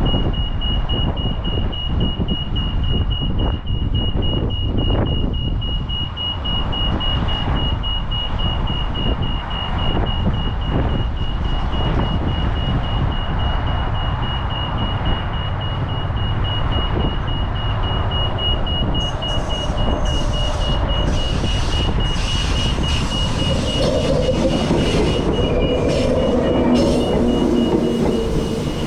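Transperth electric train approaching over a steady rapid high beeping and a low rumble: from about two-thirds of the way in, clattering and hiss build up, and near the end steady whining tones join as the train draws close.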